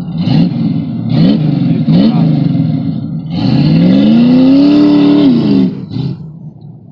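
Chevrolet Corvette C3's V8 engine revving hard: three quick blips about a second apart, then a long rev that climbs, holds near the top for about two seconds and falls away near the end.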